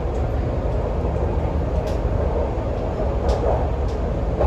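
MTR Kwun Tong Line C-train running along the track, a steady rumble of wheels and traction noise, with a few faint high ticks.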